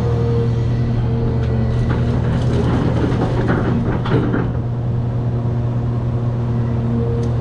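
Cat 336 hydraulic excavator's diesel engine running steadily, with a faint tone that comes and goes above it. Scattered knocks and scraping come from about two to four and a half seconds in.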